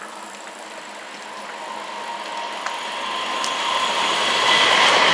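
Train running on the track and drawing nearer, its rumble growing steadily louder, with a few light clicks.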